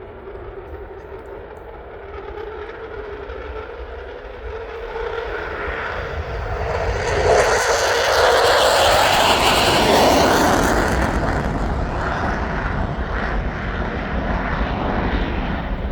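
Jet aircraft engine roar building as it approaches, loudest about halfway through as it passes, then easing slightly.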